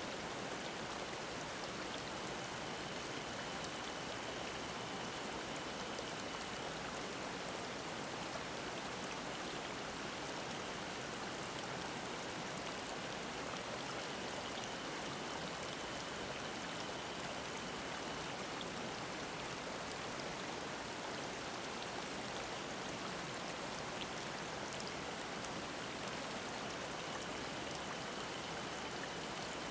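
Mountain stream flowing over rocks, a steady rush and babble of water. A faint, high, steady cicada song comes and goes three times.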